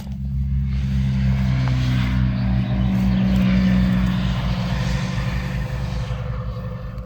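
A motor engine running nearby, growing louder about a second and a half in, then fading toward the end, as from a vehicle passing by.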